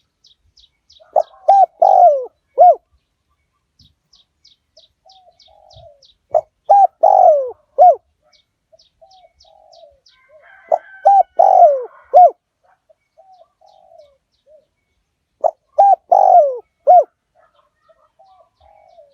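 Decoy spotted dove cooing. A phrase of several short coos with one longer, falling note comes four times, about every four to five seconds. Faint high chirps of small birds sound in the gaps.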